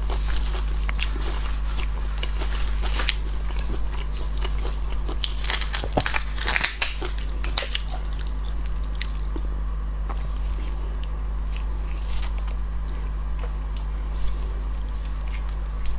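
Close-miked eating of shellfish: crisp bites, cracks and crunches with chewing, coming thickest about five to seven seconds in, over a steady low hum.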